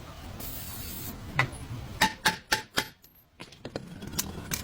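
A run of sharp clicks and knocks, about five in quick succession around two seconds in, then lighter ticks, after a brief hiss near the start.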